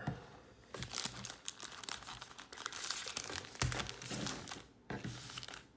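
Trading-card pack wrappers and packaging from a 2021 Topps Heritage baseball blaster box crinkling and tearing as they are opened by hand. The crackling comes in dense runs, with short lulls about half a second in and near the end.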